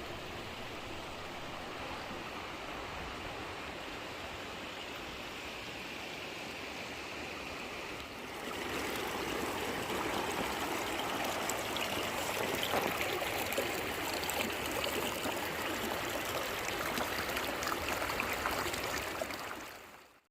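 Running water of a stream, a steady rush that grows louder about eight seconds in, then fades out at the end.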